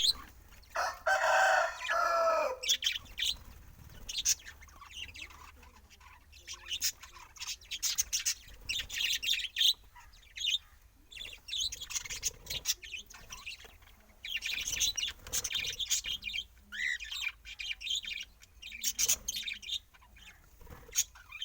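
Birds chirping and twittering in many short, high bursts. A louder, lower call with several pitched layers sounds for about two seconds at the start.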